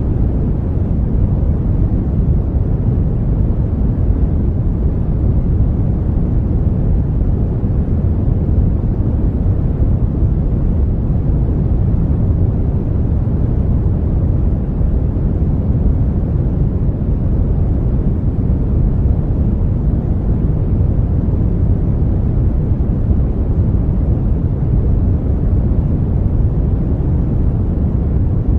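Continuous brown noise: a steady, deep rushing hiss with most of its weight in the low end, unchanging throughout.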